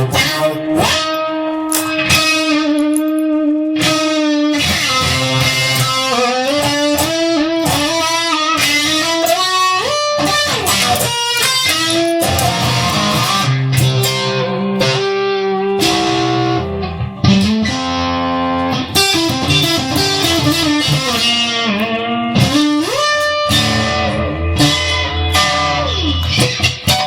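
Instrumental rock passage led by electric guitar, playing melodic lines with bent and sliding notes over a rhythm section.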